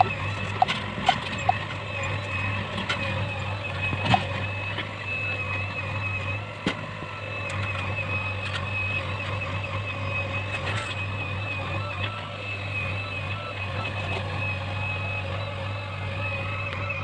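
Heavy diesel machinery engine running steadily at a constant low hum, with a steady high-pitched whine over it and a few sharp knocks and clicks in the first seconds.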